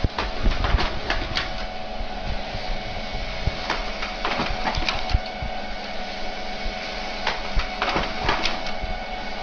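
A printer's mechanism running: a steady whir with frequent irregular clicks and clacks.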